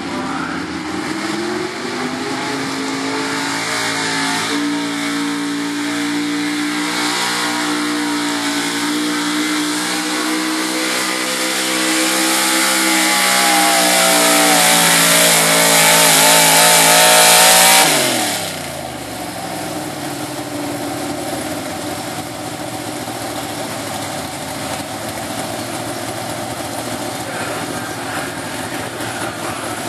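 Super stock 4x4 pulling truck's engine at full throttle on a sled pull, the pitch climbing and the sound growing louder for about sixteen seconds. About eighteen seconds in the throttle is cut and the engine winds down quickly, leaving a lower, steady rumble.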